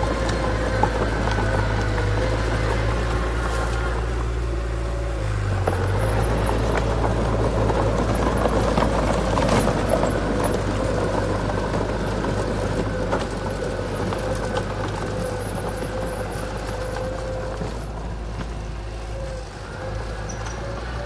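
Heavy diesel earthmoving machinery running steadily, getting louder and rougher for a few seconds near the middle.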